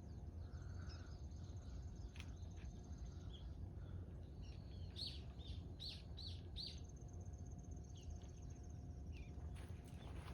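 A bird chirping: a quick run of about five short high chirps near the middle, with a few fainter calls earlier, over a low steady outdoor rumble.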